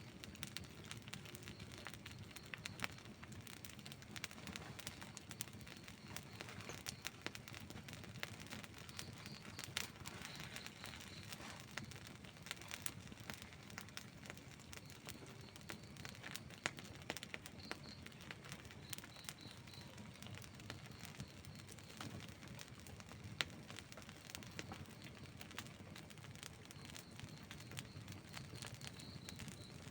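Outdoor wood campfire crackling, with frequent small pops and a few louder snaps over a low, steady background noise.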